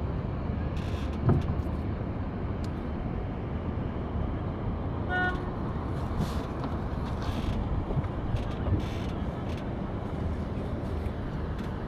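Steady low rumble of wind buffeting the microphone on a sailing boat under way in light wind. There is a single click about a second in and a short pitched toot about five seconds in.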